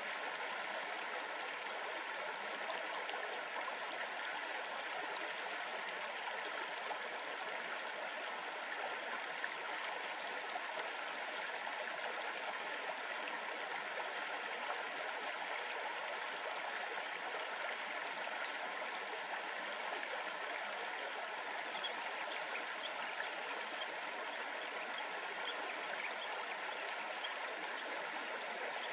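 River water babbling over stones in a steady, unbroken rush, with a few faint high chirps near the end.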